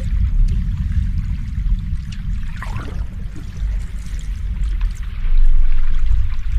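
Ocean waves washing in a continuous deep rumble with a light hiss on top, swelling louder near the end.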